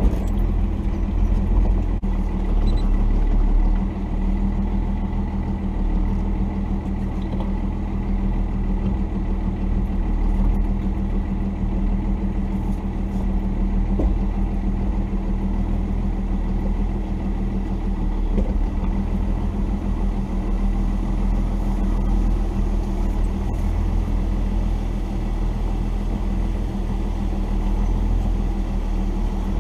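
The 1990 Dodge D250's Cummins inline-six turbo diesel running steadily at low speed, with a faint steady high tone above the low engine note.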